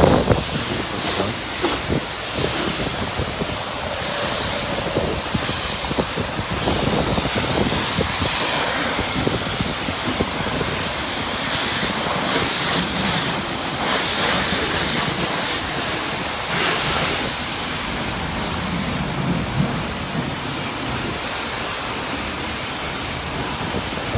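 High-pressure wand at a self-service car wash spraying the final rinse of osmosis-purified water over a car: a steady hiss of spray hitting the bodywork that swells and eases as the jet moves.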